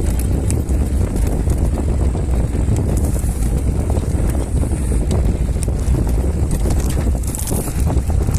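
Wind buffeting the microphone with a heavy, steady low rumble, mixed with frequent short clicks and rattles from an e-bike jolting over a rough downhill trail.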